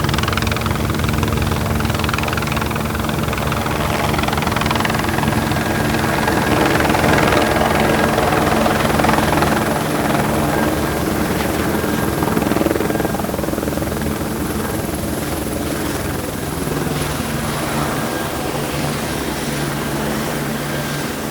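Helicopter running, with rotor blade chop and a thin high turbine whine. It grows louder to a peak about a third of the way through, then slowly fades.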